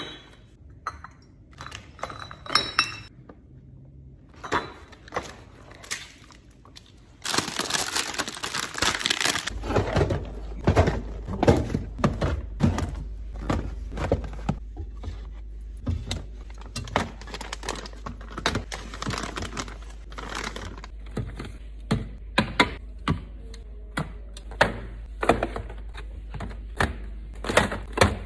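Bottles, jars and food containers clinking and knocking as they are set down and arranged in a refrigerator, one item after another. About a quarter of the way in there are two seconds of dense rustling noise, and a low steady hum comes in soon after.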